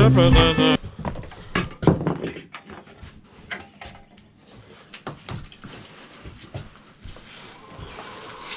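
Music ends abruptly about a second in, followed by scattered, irregular metallic clinks and knocks of hand tools and parts being handled during motorcycle rear-wheel and chain work.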